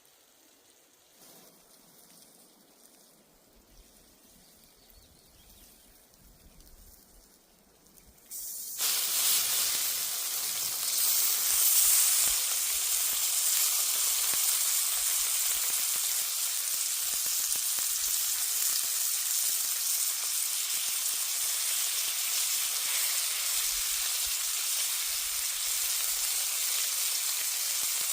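Food frying in hot oil: a steady sizzle that starts suddenly about nine seconds in, after a faint, quiet stretch.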